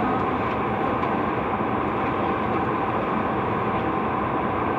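Steady rushing background noise with a faint hum, unchanging throughout, with no distinct events.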